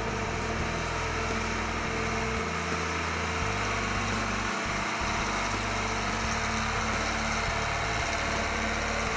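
Case 2090 tractor's diesel engine running steadily.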